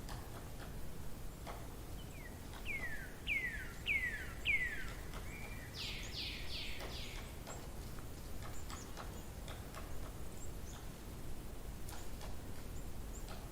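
A songbird singing a phrase of four or five falling whistled notes, followed by a quicker, higher run of notes, over a steady low outdoor rumble with scattered faint ticks.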